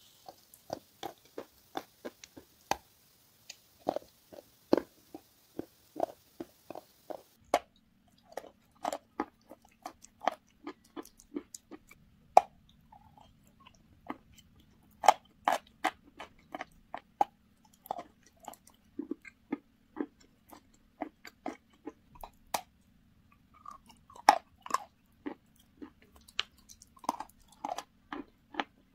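Close-up crunching and chewing of a block of chalk coated in a thick, creamy paste. Many short, sharp crunches come at an irregular pace, several a second, as it is bitten and chewed.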